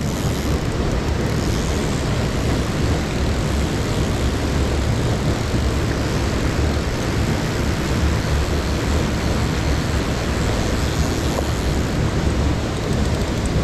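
Mountain-stream waterfall pouring into its plunge pool: a steady rushing roar, heaviest in the low rumble.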